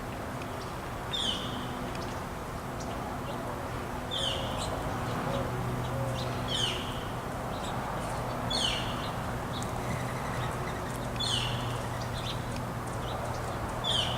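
A small songbird repeating a short, high call that drops steeply in pitch, six times at intervals of two to three seconds, over a steady low hum.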